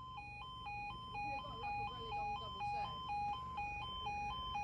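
Level crossing warning alarm sounding while the barriers are down: a steady two-tone warble, switching between a lower and a higher note about twice a second.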